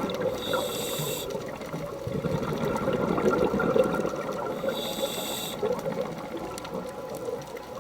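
Rushing, splashing water, such as a stream or waterfall, as a steady wash of sound. Twice, briefly, a high ringing shimmer sits over it: about half a second in and again about five seconds in.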